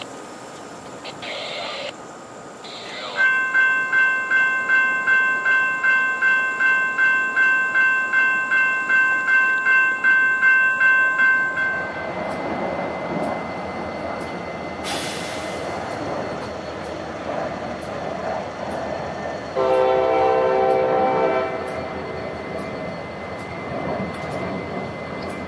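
A railroad crossing bell rings about twice a second for roughly eight seconds over the passing freight train. Then the rumble of an approaching CSX diesel locomotive, which sounds its horn once, a chord held for about two seconds.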